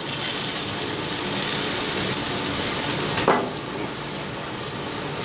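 Butter and minced garlic sizzling on a hot griddle top: a steady frying hiss, with one short sound a little over three seconds in.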